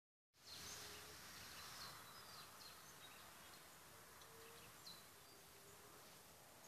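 Quiet forest ambience: a steady faint hiss with a few faint, short, high bird chirps scattered through.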